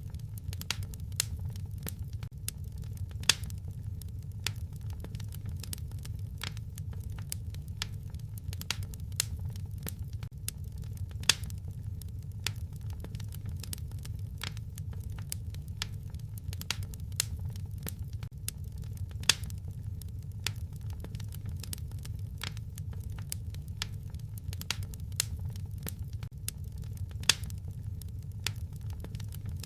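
Wood fire crackling in a fireplace: irregular sharp pops and snaps over a steady low rumble of the flames, with a few louder pops standing out.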